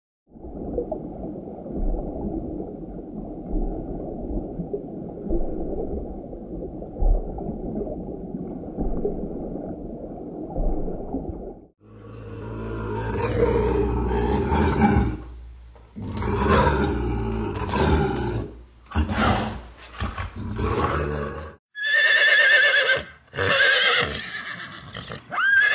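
A low rushing noise for about twelve seconds, then a lynx calling repeatedly for about ten seconds, then a horse whinnying several times near the end.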